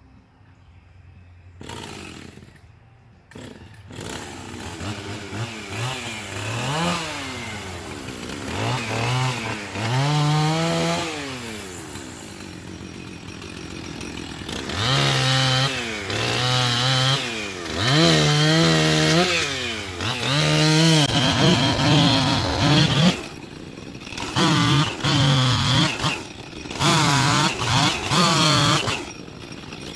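Gasoline chainsaw revving up and down over and over, its pitch rising and falling with the throttle. It starts a few seconds in after a couple of short noises, and near the end the sound drops out briefly several times.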